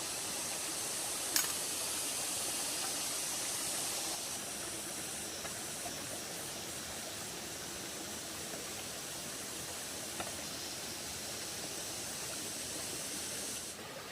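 Steady rushing hiss with two sharp clicks, one about a second and a half in and a fainter one about ten seconds in; the hiss drops a little in level near the end.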